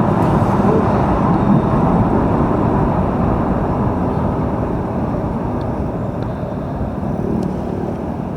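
Steady rumble of heavy road traffic on a busy highway, motor vehicles passing close by, easing a little toward the end.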